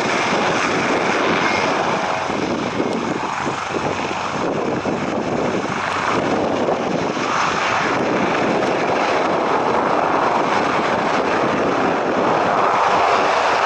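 Jet airliner engines running, a steady broad roar that grows a little louder near the end, with gusty wind noise on the microphone.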